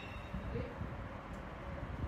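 Light wind rumbling on the microphone, uneven and low, over a steady faint hiss.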